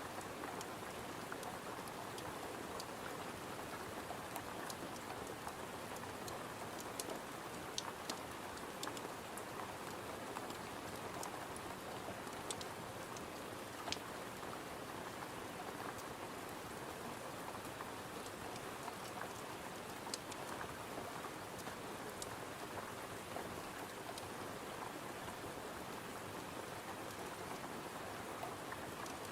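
Steady rain with scattered sharp pops and crackles from a wood fire.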